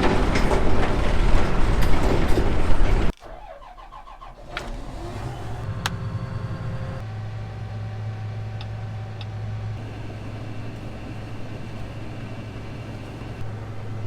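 A loud rushing noise cuts off suddenly about three seconds in. Soon after, an engine starts, its pitch rising briefly, then settles into a steady low running hum.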